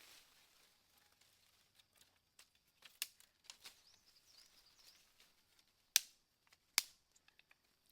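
Scattered sharp clicks and snaps, two much louder ones a little under a second apart in the second half, with faint bird chirps in the background.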